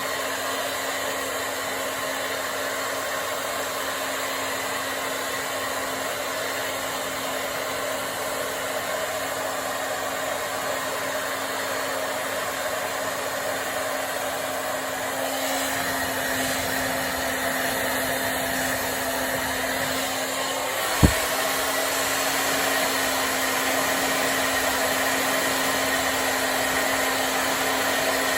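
Hand-held hair dryer blowing steadily, a rushing airflow with a steady motor hum, its sound growing fuller about halfway through as it is moved about the hair. A single short thump sounds about three-quarters of the way in.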